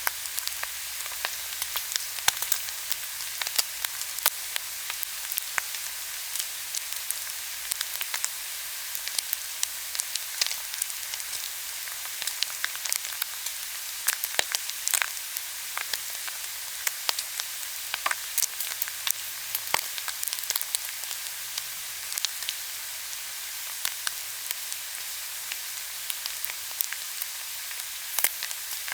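Pork belly and kimchi sizzling on a grill pan, a steady hiss of fat frying with frequent sharp pops and crackles throughout.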